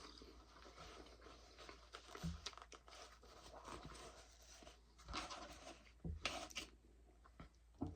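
Faint chewing and mouth sounds of someone eating food with hot sauce, with small scattered crunches, rustles and clicks.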